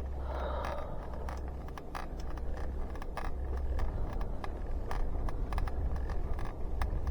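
Bicycle being ridden, with wind rumbling on the microphone and frequent irregular clicks and ticks from the bike, along with the squeak of a squeaky pedal.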